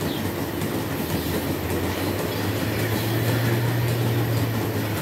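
Milking shed machinery running: a continuous mechanical rumble with a low hum that grows louder about two and a half seconds in, then eases near the end.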